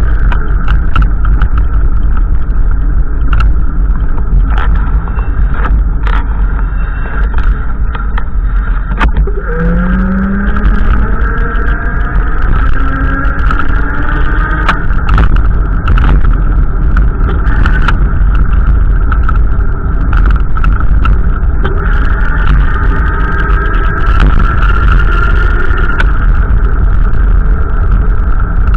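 Strong wind buffeting the microphone: a loud, continuous low rumble, with fainter wavering tones drifting above it.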